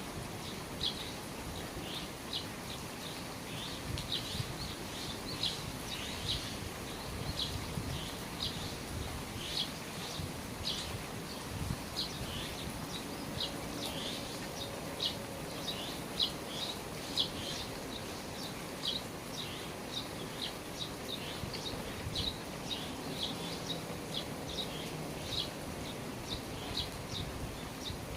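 Steady rain falling at the eaves, with a small bird chirping over it: short high chirps, about two a second.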